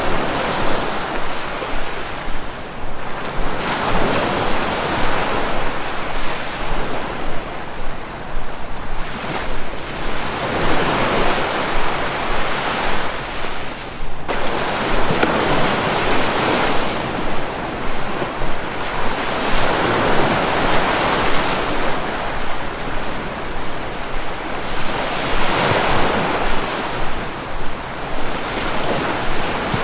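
Sea waves breaking on a shore: the surf swells and falls back in a slow rhythm, one surge every four to six seconds, over a constant wash of water.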